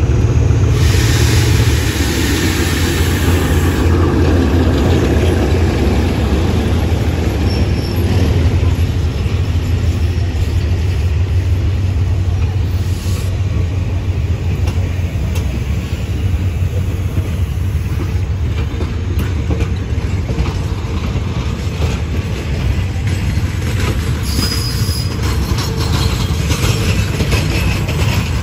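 GEK-class diesel-electric locomotive pulling a passenger train past at low speed, then the coaches rolling by with a steady low rumble and wheel noise on the rails. Brief high wheel squeals come twice, about a quarter of the way through and near the end.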